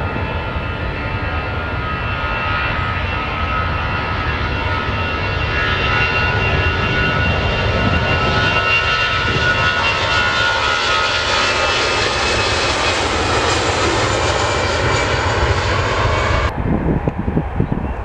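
Airliner's engines running as it passes close by: a heavy rumble under a whine of several tones that grows louder, then some of the tones slowly fall in pitch. The sound cuts off abruptly near the end.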